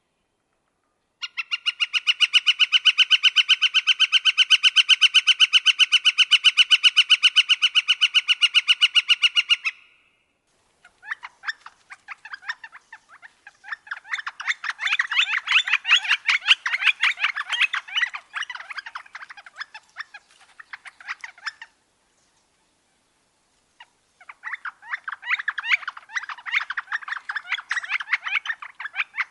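Northern flicker calling: a long, even series of rapidly repeated pitched notes lasting about eight seconds, then, after a short gap, rougher and more irregular runs of rapid notes, twice.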